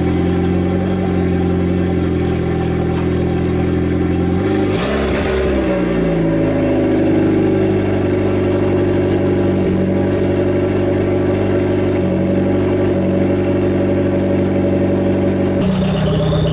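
Turbocharged Nissan SR20DE four-cylinder engine running at a steady idle, with one quick rev that rises and falls about five seconds in. Near the end the engine note suddenly drops and a higher whine joins it.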